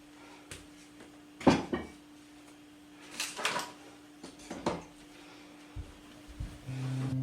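A few scattered knocks and clinks of objects being handled, the loudest about one and a half seconds in and a cluster at about three seconds, over a faint steady hum. Acoustic guitar music comes in near the end.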